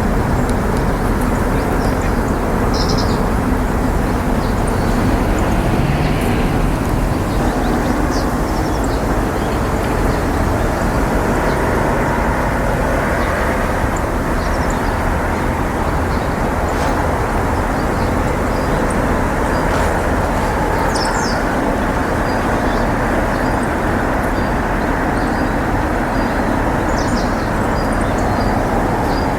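Steady low outdoor background roar, with a few faint, high bird chirps over it and a run of faint repeated high ticks near the end.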